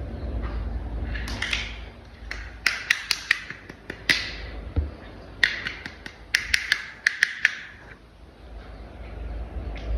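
Hard plastic toy parts clicking and rattling as they are handled and fitted together, in two quick clusters of sharp clicks with scraping between.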